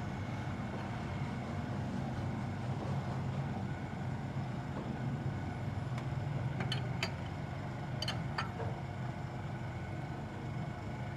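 A steady low mechanical hum, with a few light metallic clicks about two thirds of the way through.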